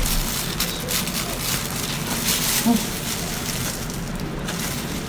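Food sizzling in hot chili oil, a steady crackling hiss with scattered small clicks and scrapes of stirring.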